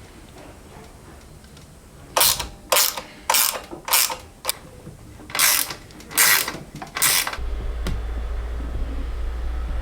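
A hand ratchet worked in about eight quick strokes over some five seconds, each stroke a short burst of clicking. A steady low hum comes in near the end.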